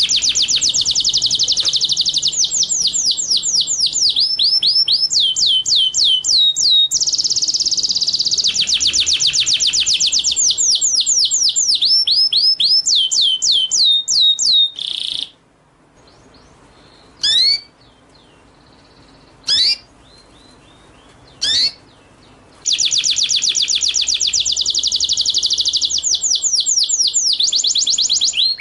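Recorded song of a small songbird: fast, high trills of repeated down-slurred notes, the pace changing from phrase to phrase. About halfway through the trilling stops, three single sharp whistled notes follow a couple of seconds apart, and then the fast trill starts again.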